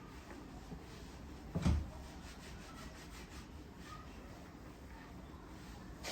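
Quiet hand-cleaning handling sounds: light rubbing and small ticks, with one dull bump about a second and a half in.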